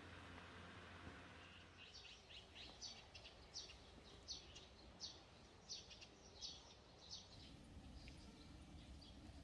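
A bird calling faintly: a quick series of short, high chirps, about two or three a second, that stops near the end, over a low steady background hum.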